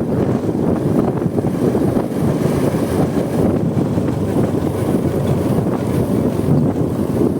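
Wind rushing steadily over the microphone of a moving motorcycle, with the running engine and road noise of a Honda Supra X 125 underneath.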